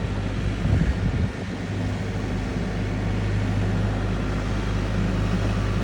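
Tractor engine running at a steady speed, an even low drone.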